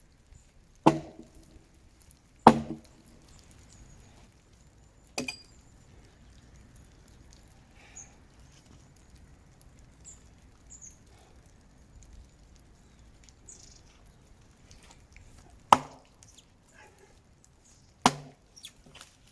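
Axe chopping into a dead tree: five sharp strikes, the first three a second or two apart, then a long pause before two more near the end.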